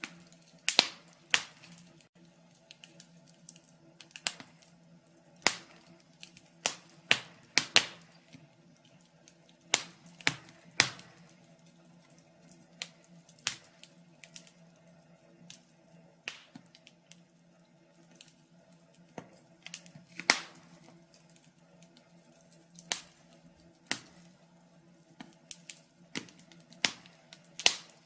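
Wood fire crackling: irregular sharp pops and snaps, roughly one or two a second and some much louder than others, over a faint steady low hum.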